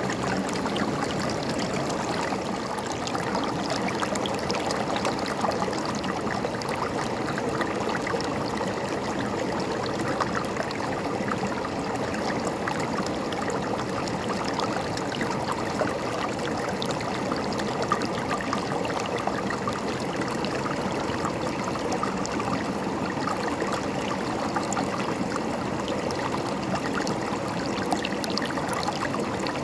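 River water flowing and gurgling over stones, a steady babbling rush with fine splashing detail.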